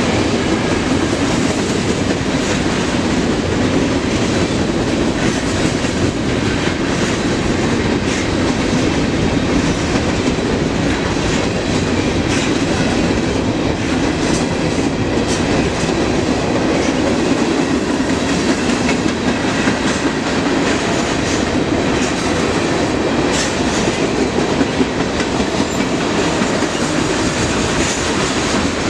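Freight train cars rolling past, a steady loud rumble of steel wheels on rail with clicks of the wheels over the rail joints.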